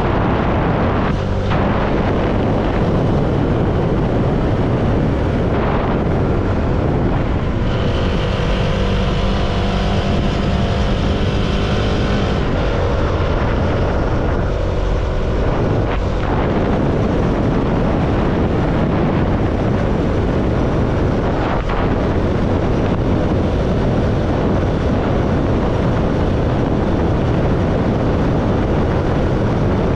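CFMoto motorcycle engine running at road speed, mixed with steady wind rush on a rider-mounted microphone. Between about 8 and 12 seconds a steadier pitched engine note stands out, then fades back into the wind noise.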